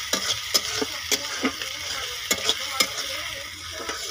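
Chopped onion and spices frying in a metal kadai with a steady sizzle, while a metal spoon stirs them and clinks and scrapes against the pan at irregular moments.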